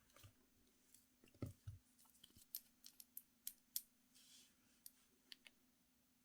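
Faint, irregular sharp clicks and taps of small hard objects being handled, about a dozen over a few seconds, with a couple of duller knocks about a second and a half in. A faint steady low hum lies underneath.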